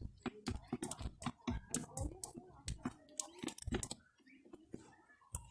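Birds pecking at scattered cracked corn: rapid, irregular clicks of beaks on grain, mixed with short, low calls.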